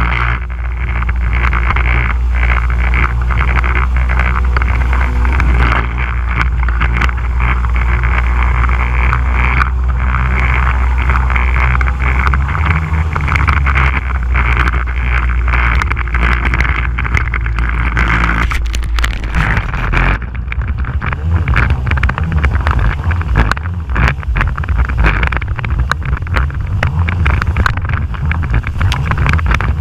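Stand-up jet ski engine running hard under way on the water, with spray hiss and wind on the microphone. The engine note drops about twelve seconds in and turns uneven from about nineteen seconds on, broken by many short splashes and knocks.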